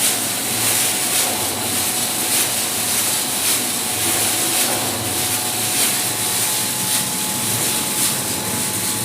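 Pet food production line machinery running steadily, a continuous mechanical noise with a strong high hiss and faint steady whining tones.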